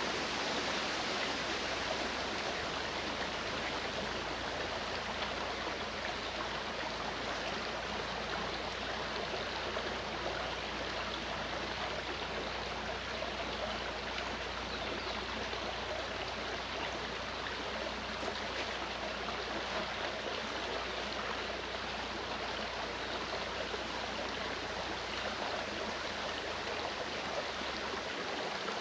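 Clear mountain stream flowing, a steady, even rush of water.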